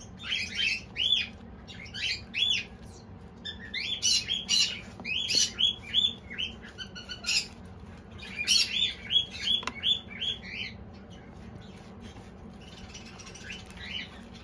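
Small birds chirping: several runs of quick, short high chirps, with a lull about two-thirds of the way through.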